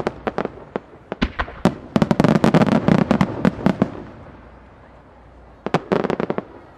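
Starmine fireworks barrage: shells bursting in rapid volleys of sharp bangs that crowd together, die away about four seconds in, then return in a fresh quick cluster near the end.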